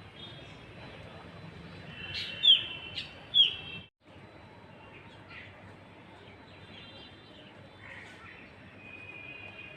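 Small birds chirping, with two loud, short, downward-sliding chirps about two and a half and three and a half seconds in. The sound cuts off abruptly just before four seconds, and fainter scattered chirps follow.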